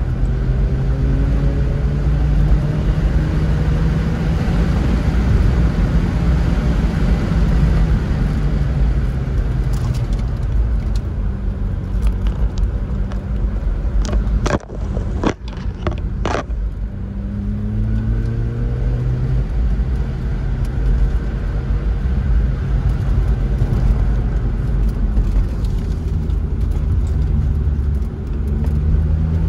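Mazda rotary engine heard from inside the car's cabin while driving, its pitch rising and falling with the throttle. About halfway through, the engine sound drops off briefly with a few sharp clicks, then rises again.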